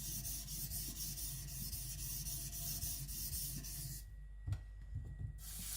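Kiridashi blade scraping back and forth on a Naniwa Professional 400 water stone under light pressure, in quick even strokes that stop about four seconds in, followed by a couple of light knocks.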